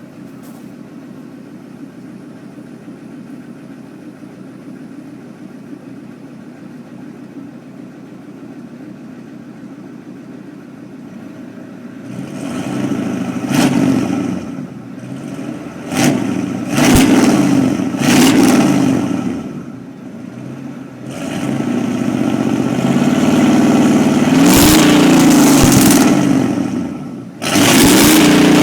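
1986 Ford F-250's 6.9-litre IDI non-turbo V8 diesel, straight-piped with the muffler removed, idling steadily. About halfway through it is revved in several quick blips, then held at high revs for about five seconds, and revved again near the end.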